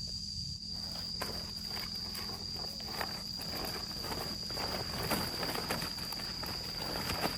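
A steady high-pitched insect drone of crickets or cicadas, with irregular rustling and footsteps over it and a low rumble underneath.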